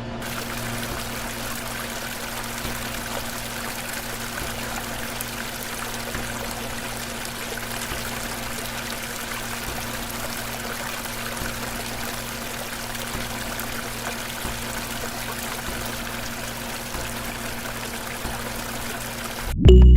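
Water pouring and splashing steadily from a mini DIY water pump, over the steady hum of its small motor. The water cuts off suddenly just before the end.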